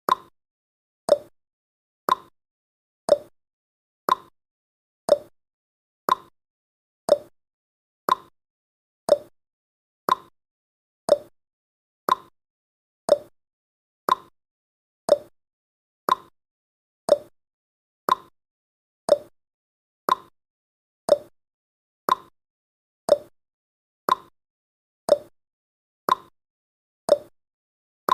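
Countdown timer's ticking sound effect: a short, sharp tick once a second, evenly spaced.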